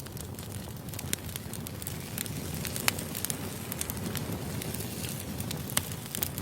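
Wood fire burning: a steady low rumble of flames with irregular sharp crackles and pops from the firewood, two louder pops about 3 and 6 seconds in.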